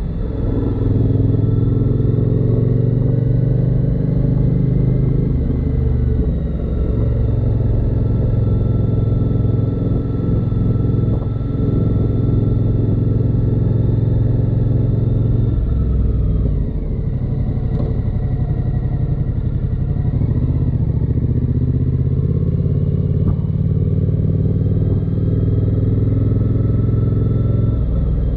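Suzuki V-Strom 1050XT's V-twin engine running steadily as the motorcycle is ridden. About halfway through, the engine note drops briefly and then picks up again.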